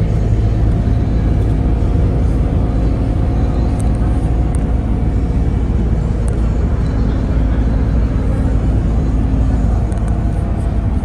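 A vehicle's engine running steadily, a constant low rumble with a steady hum over it.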